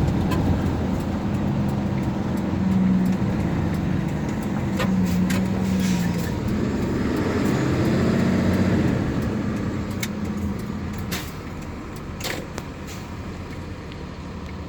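Large tow truck's engine running while driving, heard from inside the cab along with road noise. The engine note rises and falls a few times, then drops quieter near the end.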